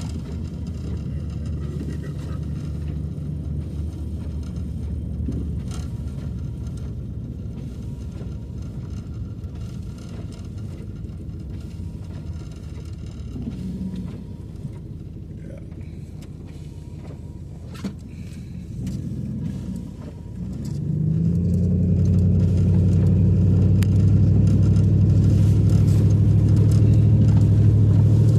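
Car engine running at low speed with a low rumble. About two-thirds of the way through it revs up and holds a louder, higher steady note as the car accelerates.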